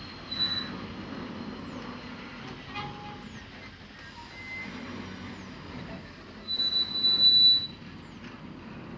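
A heavy vehicle rumbling along, with a high-pitched metallic squeal briefly near the start and a louder, longer squeal about a second long near the end.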